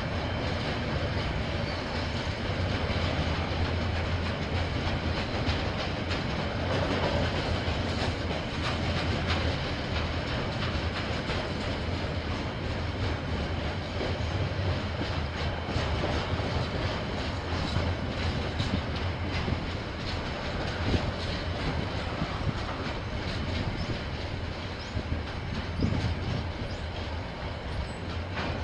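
A KiwiRail train rolling past, its wagon wheels clicking over rail joints over a steady low rumble.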